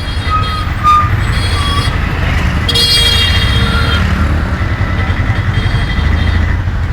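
Street traffic: vehicle engines running steadily, with a horn sounding for about a second near the middle.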